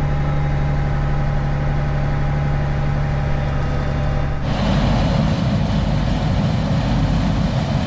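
Farm tractor engine running steadily while pulling a grain cart. About halfway through the sound changes suddenly to a rougher, louder-sounding engine rumble with more hiss.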